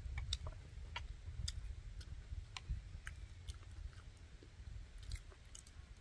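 People chewing bread as they eat, with scattered small sharp clicks, over a steady low rumble.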